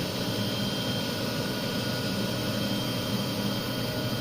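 Small CNC cylindrical grinder running steadily: a continuous machine hum with a faint whine from its grinding-wheel spindle motor and drives.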